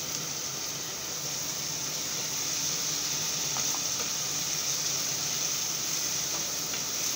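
Chopped tomatoes and onions frying in oil in a pan, a steady sizzle, with a few faint scrapes from a wooden spatula stirring them.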